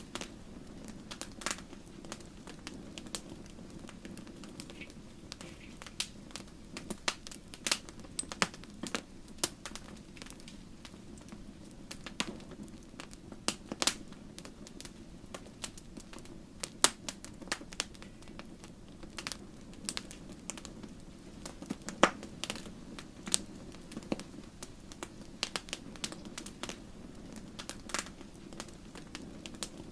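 Wood fire burning in a fireplace, the logs crackling with irregular sharp pops and snaps, some much louder than others, over a steady low rush.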